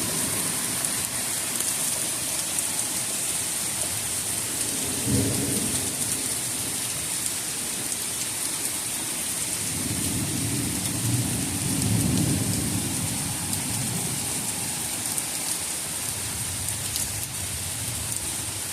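Heavy rain pouring down in a pop-up thunderstorm, a steady hiss throughout. Thunder rumbles low, briefly about five seconds in, then longer and stronger from about ten to thirteen seconds.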